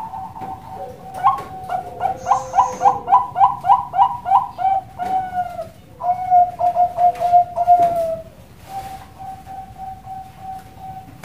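Zebra dove (Bangkok-type perkutut) singing its cooing song: a fast run of short rising coo notes, about three to four a second, then a steadier, softer run of coos near the end.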